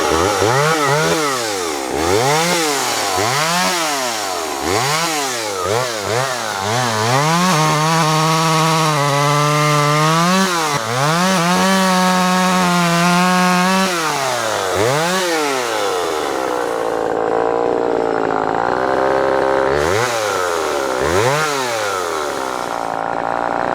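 Vintage Homelite Super EZ Automatic two-stroke chainsaw running, revved up and down in quick repeated blips about once a second, then held at high speed for a few seconds twice. It then drops back to a lower speed, with a few more revs near the end.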